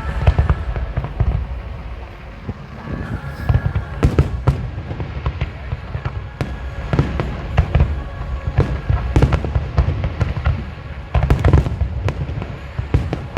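Aerial fireworks bursting in a rapid, irregular run of sharp bangs over deep booming rumble, with a denser, louder flurry of bursts near the end.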